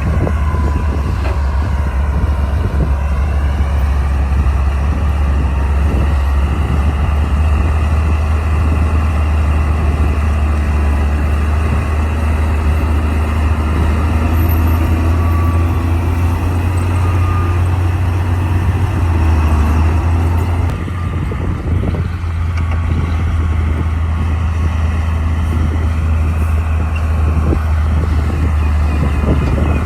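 Komatsu D60 crawler bulldozer's diesel engine running under load: a steady low rumble whose note rises and falls a few times. It eases briefly about two-thirds of the way through.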